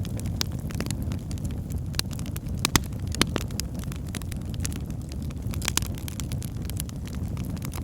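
Fire burning in a small fireplace, crackling with frequent sharp pops over a steady low rumble of flames. A few louder pops come near the middle.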